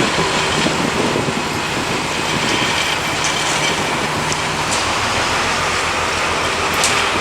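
T448p diesel shunting locomotive running under load as it pushes a rake of empty coal wagons, with a steady engine hum over the rumble of wheels on rail. Brief high squeaks come a few times in the middle and once more strongly near the end.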